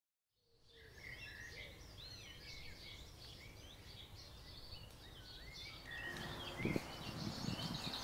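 Several songbirds singing, a dense mix of chirps and short warbling phrases, fading in at the start. A few low thuds come in about two-thirds of the way through.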